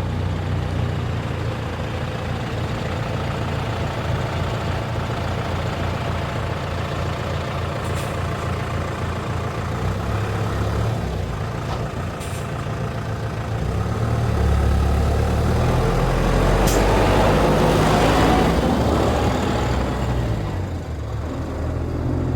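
Diesel engines of heavy silage-harvest machinery running steadily, growing louder for several seconds past the middle of the stretch, then easing off, with a few faint clicks.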